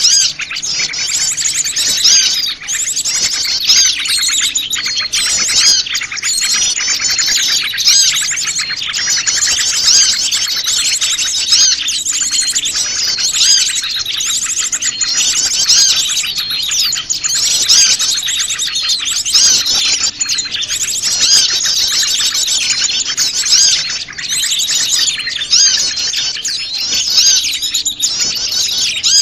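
Mixed chorus of many small wild birds chirping and twittering at once, a dense, unbroken layer of rapid high chirps and trills. It is a bird-lure (pikat) recording meant to draw small wild birds in.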